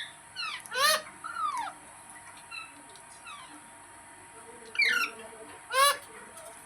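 Indian ringneck parrot calling: a few short, harsh screeches, loudest about a second in and again near the end, with softer chirps between.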